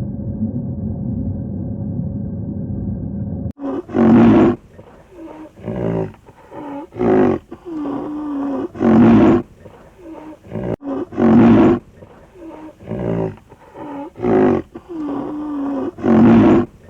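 A steady rumbling noise cuts off suddenly about three and a half seconds in. Then a large animal calls loudly over and over, a low-pitched call every two to three seconds, with quieter calls between.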